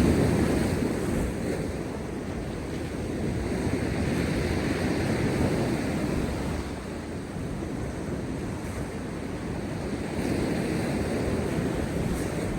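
Heavy post-storm surf breaking on rocks: a continuous rush of sea water that swells and fades, loudest at the start as one wave breaks, then building again through the middle and once more near the end.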